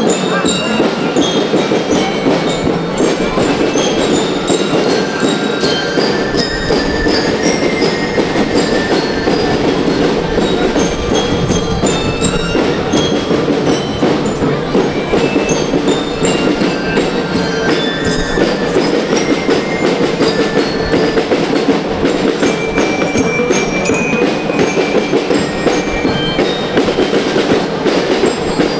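School rhythm band playing: a glockenspiel-like bell-lyre melody in short high notes over loud, dense, continuous drumming.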